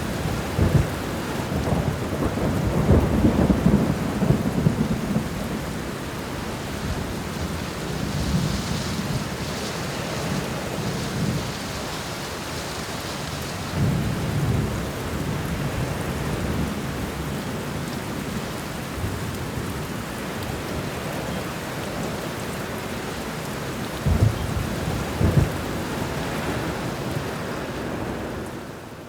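Steady heavy rain with rolling thunder. Low rumbles swell through the first few seconds and again several times after, and two sharper claps come close together near the end.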